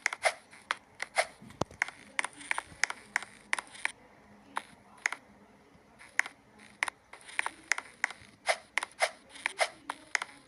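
A run of sharp, irregular clicks or taps, two to four a second, with a couple of short pauses.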